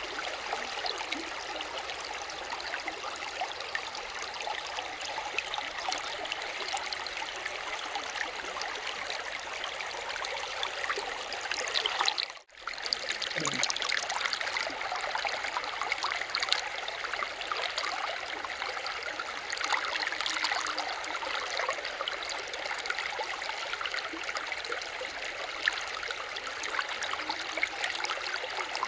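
Water running in a stream, a steady flowing and trickling rush that cuts out for a moment about halfway through.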